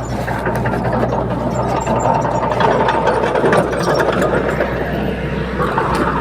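Bulldozer's diesel engine running under load with the steady clanking and rattling of its steel crawler tracks.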